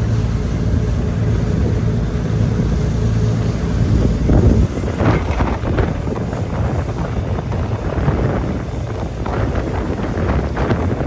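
A ferry's engines droning steadily, with wind buffeting the microphone. From about four seconds in the wind turns gusty and rough.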